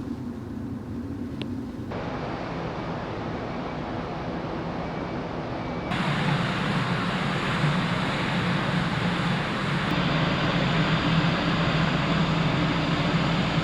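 Steady low engine rumble and rushing noise aboard a large car ferry. The sound changes abruptly about two seconds in and again about six seconds in, becoming louder and fuller after the second change.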